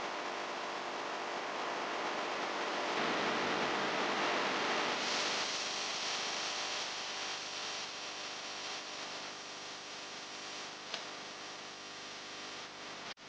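A steady hiss that swells to its loudest about four to six seconds in, then slowly fades, with a short click near the end.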